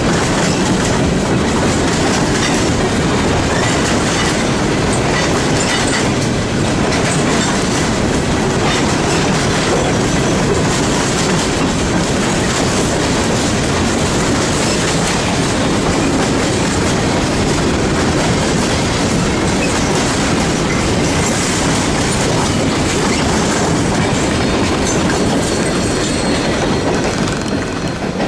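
Freight train of Norfolk Southern hopper cars passing close by: a steady, loud rumble and clatter of steel wheels on the rails.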